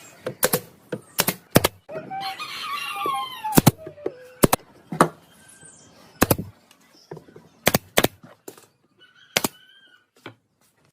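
Irregular sharp knocks, like hammer blows on wood, about one every half second to a second. A rooster crows once about two seconds in, a long call falling in pitch.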